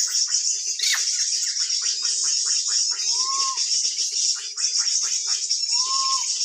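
Birds calling: a rapid run of short falling chirps, with a slurred, arched whistle about three seconds in and another near the end. Behind them is a steady high-pitched drone of insects.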